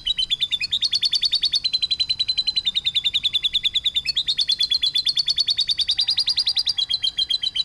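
A songbird's rapid, harsh trill of chirped notes, about ten a second, in phrases that shift pitch slightly every second or two, as used in a bird-training recording of rough 'burst' song.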